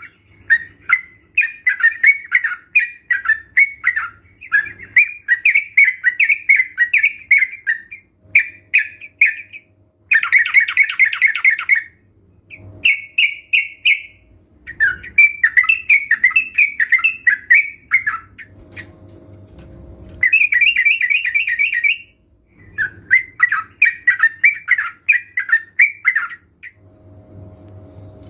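Several yellow-vented bulbuls chattering in quick, bubbly phrases, one run after another with short pauses. About ten seconds in and again near twenty seconds there is a denser, rapid rattling phrase.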